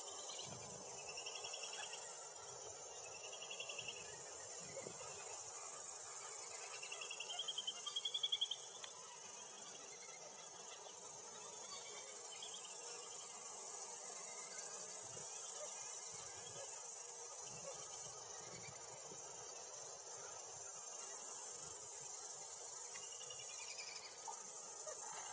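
Outdoor insect chorus: a steady, very high-pitched shrill of crickets or similar insects, with short pulsed chirps now and then.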